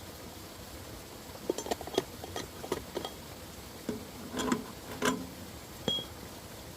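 A series of irregular knocks and clicks, a dozen or so, starting about a second and a half in and stopping about six seconds in, some with a short ring.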